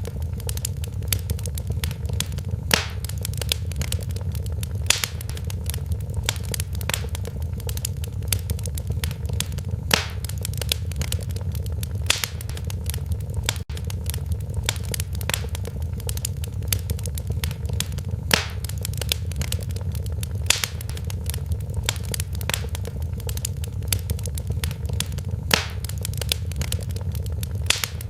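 Wood fire in a fireplace crackling, with many small crackles and a sharper pop every few seconds over a steady low rumble.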